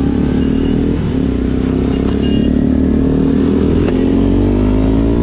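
Single-cylinder Bajaj Pulsar NS200 engine heard from the rider's seat, accelerating in gear with its pitch climbing steadily.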